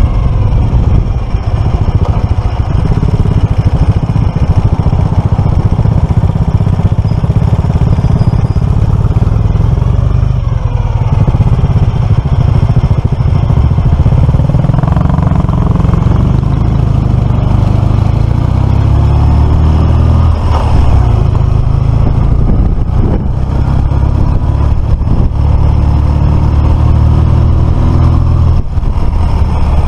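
Suzuki FL125 Address scooter's small single-cylinder engine running on the road, its pitch rising and falling with the throttle several times, over a heavy steady low rumble.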